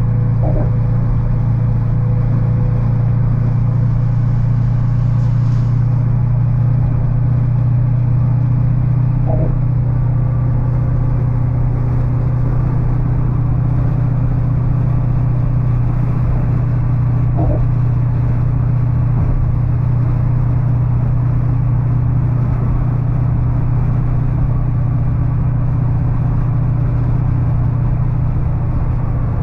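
LS-swapped 1981 Chevrolet C10 pickup cruising on the highway, heard from inside the cab: a steady, unchanging engine and road drone.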